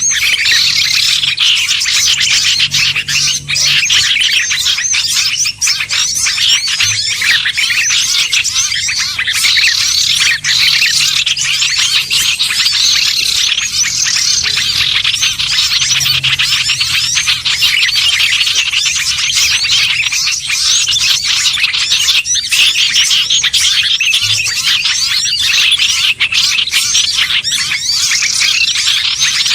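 Dense, unbroken chattering and chirping of many small songbirds at once, a mixed-species bird-lure call track of the kind used to draw bulbuls, ioras, sunbirds and prinias.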